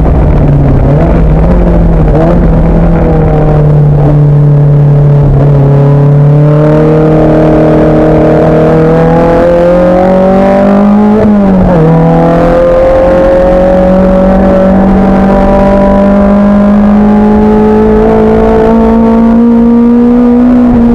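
Racing car's engine running hard under load in a race, its pitch slowly climbing. About halfway there is a quick dip in pitch before it picks up again.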